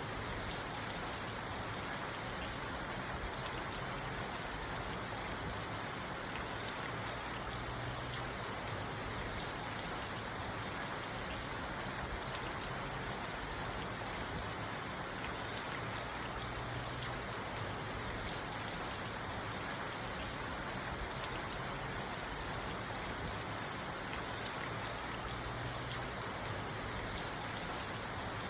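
Steady rain falling on a parked car, heard from inside the cabin.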